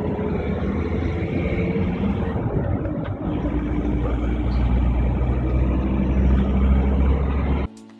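Vehicle engine and road noise running steadily, with the low rumble growing louder about three seconds in. It cuts off abruptly near the end.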